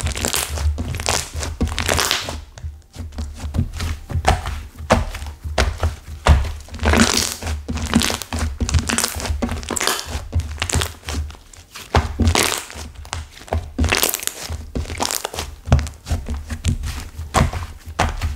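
Hands squeezing and kneading a clay slime that has set stiff, giving a continuous run of crackling, crunching pops several times a second.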